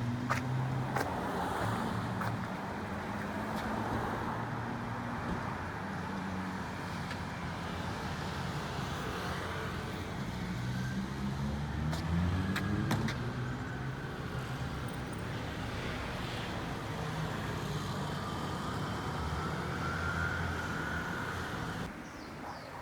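Road traffic: motor vehicle engines running and passing, with one engine rising in pitch about halfway through and a few sharp clicks.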